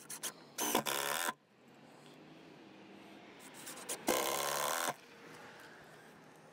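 Cordless power driver driving screws into porch framing lumber: two short, loud buzzing bursts, the first about a second in and the second about four seconds in, with a few small clicks before each.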